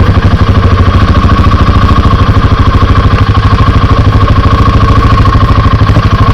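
Motorcycle engine running steadily at low revs, an even, fast pulsing of about a dozen beats a second with no revving.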